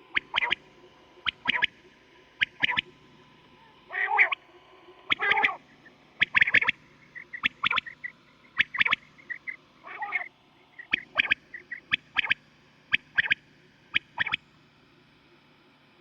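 Quail calling over and over: short, sharp notes in quick pairs and triplets about once a second, with a few longer, lower-pitched notes in between.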